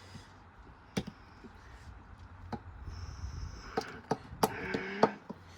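Washing machine running with a towel load: a low rumble building up, with sharp knocks that come closer and closer together.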